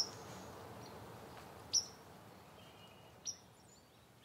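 Three short, high bird chirps spaced a second or more apart, the middle one the loudest, over a faint outdoor hiss that fades out near the end.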